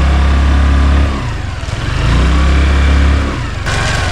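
Scooter engine running, louder in two stretches with a brief dip about a second in, and easing off near the end.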